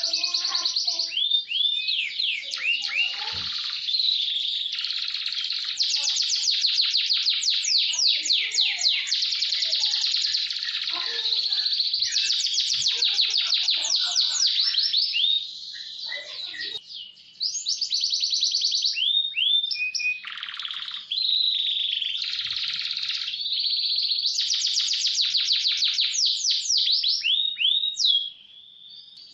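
Domestic canary singing a long, fast rolling song: high trills and runs of rapidly repeated notes, broken by short pauses about halfway through and just before the end.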